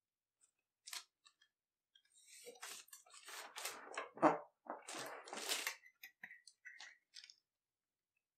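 Rustling, crinkling handling noise for a few seconds, starting about two seconds in and loudest just after the midpoint, after a single click about a second in; a few small ticks follow near the end.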